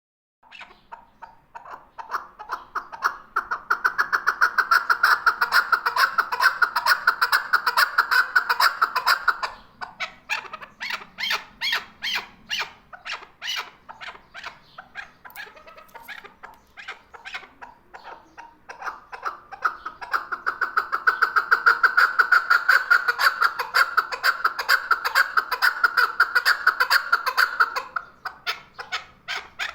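Male chukar partridge calling: a rapid run of repeated chuck notes that builds into a long, fast bout twice, with slower separate notes in between.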